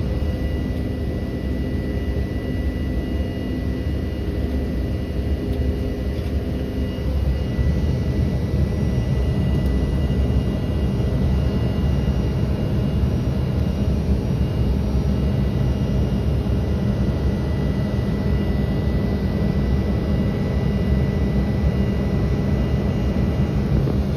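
Jet airliner's engine and airflow noise heard inside the passenger cabin during the climb: a steady low rumble with a thin steady whine above it, growing slightly louder about seven seconds in.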